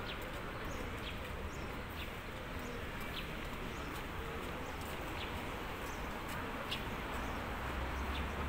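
Steady outdoor background noise with a small bird chirping repeatedly, one short high call about every second.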